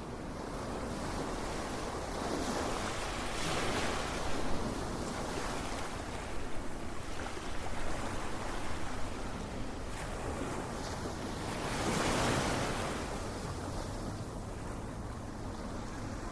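Ocean surf: waves washing in as a steady rushing hiss, with two louder swells, one about four seconds in and one about twelve seconds in.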